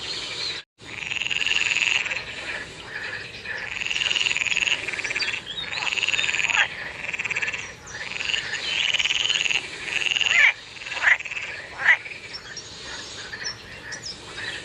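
Frogs calling in a chorus: long, pulsed, buzzing calls about a second each, repeating one after another, with two short, sharp calls that drop in pitch near the end as the loudest sounds.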